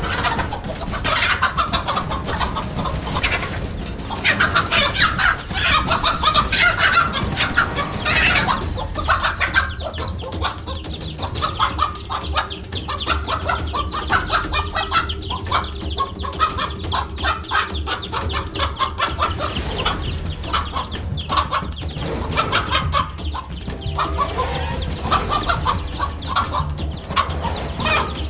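Chickens clucking repeatedly, loudest a few seconds in, over a steady low hum.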